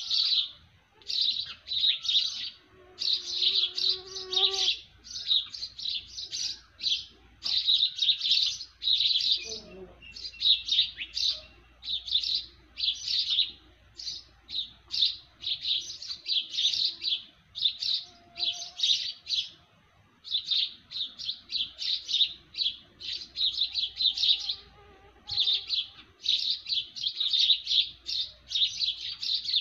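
A chorus of small birds chirping, with dense high-pitched bouts of chatter following one another almost without pause. Fainter, lower bird calls sound underneath, and a short falling note comes about ten seconds in.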